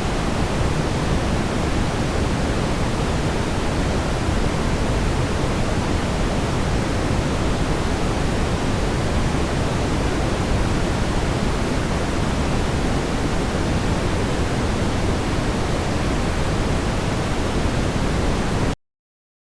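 Steady brown noise, an even rumbling hiss heaviest in the low end. It cuts off suddenly near the end.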